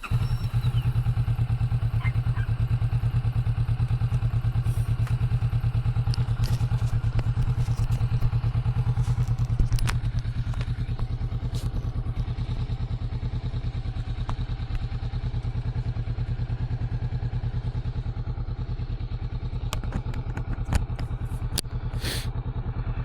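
Kawasaki Vulcan 650 motorcycle engine coming to life and idling steadily, easing to a slightly lower level about ten seconds in. A few sharp clicks and knocks come near the end.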